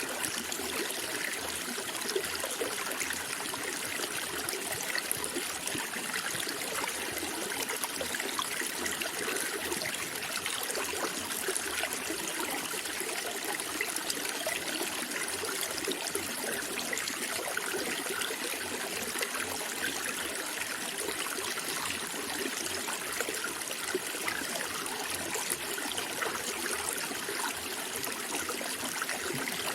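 Flowing water running steadily and unbroken, with no pauses or changes.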